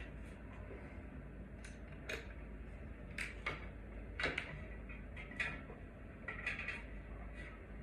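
Irregular light clicks and clinks, about a dozen spread unevenly, over a steady low hum: small parts and tools being handled during ceiling fan work.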